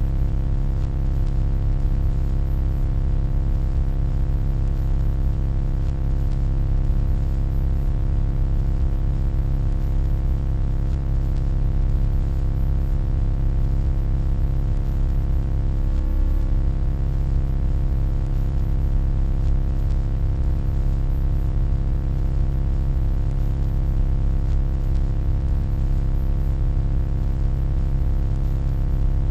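Steady electronic hum, deep and even, with a stack of evenly spaced overtones above a heavy bass drone.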